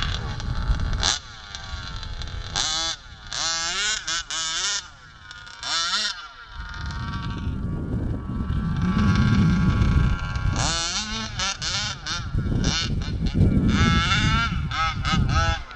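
Gas-powered HPI Baja RC buggy's small two-stroke engine revving up and down repeatedly, a buzzing whine that climbs and falls in quick throttle bursts.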